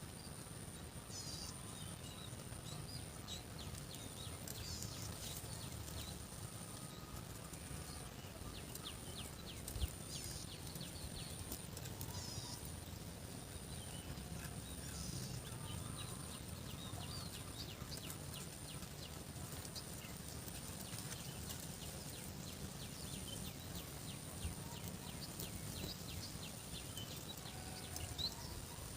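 Outdoor farm ambience: birds chirping over a steady low rumble and a thin, steady high-pitched tone, with a sharp knock about ten seconds in and a few more near the end.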